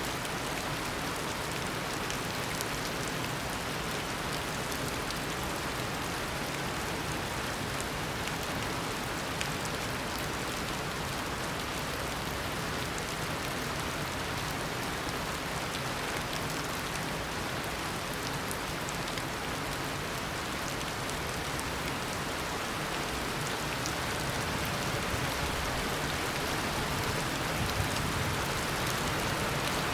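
Steady heavy tropical downpour: a dense hiss of rain with scattered drop patters, growing a little louder near the end.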